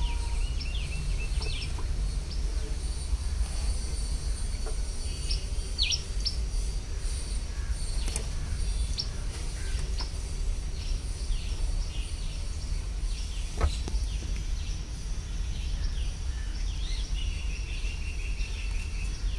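Birds chirping, with short calls and a fast trill near the end, over a steady low rumble. A single sharp click about two-thirds of the way through.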